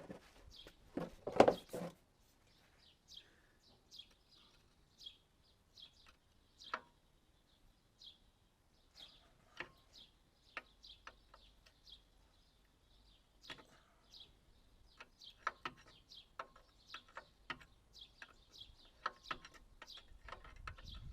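Small birds chirping repeatedly in short calls. A loud knock about a second in and a few fainter knocks later.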